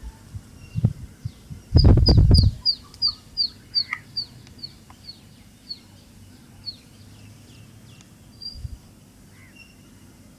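A bird singing a run of short, falling high-pitched notes, about two to three a second and slowing over some five seconds, with other scattered chirps around it. About two seconds in, a brief low thumping rumble is the loudest sound.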